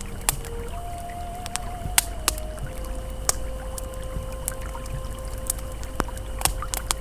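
Campfire crackling with irregular sharp pops over the steady rush of a flowing river, with soft sustained ambient tones held underneath.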